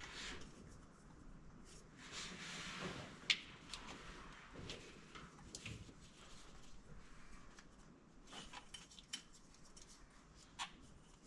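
Faint, scattered clicks and clinks of small metal tools and parts being handled, with a sharp click about three seconds in and another near the end.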